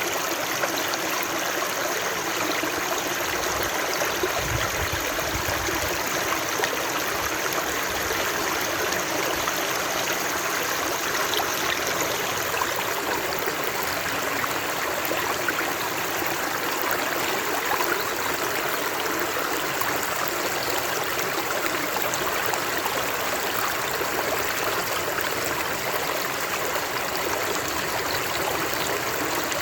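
Running water flowing steadily, with a brief low rumble about four seconds in.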